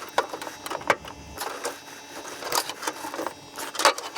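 Hand snips cutting and clacking on aluminum-armored cable: a few sharp, irregularly spaced metallic snips and clicks as the jaws bite through the aluminum sheath and wire.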